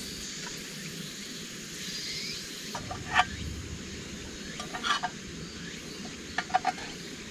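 A spoon clinking and scraping on a plate in a few short clusters, about three seconds in, again around five seconds and near the end, as the last of a curry is eaten. A steady background hiss runs underneath.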